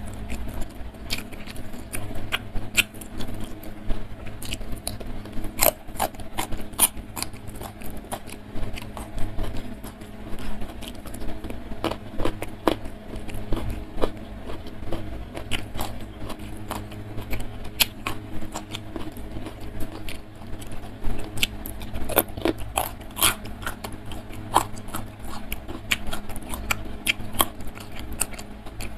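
Close-miked chewing and mouth sounds of a person eating a rice meal: a continuous irregular run of wet smacks and clicks.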